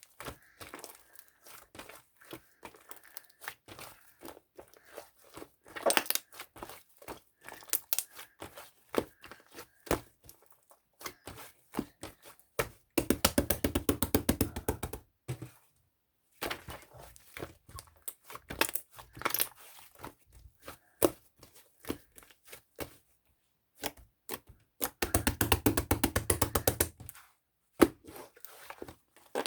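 Close-up crackling and crinkling, with scattered sharp clicks and taps, as of some material being handled or squeezed near the microphone. Two dense runs of rapid crackling, each about two seconds long, come about halfway through and again near the end.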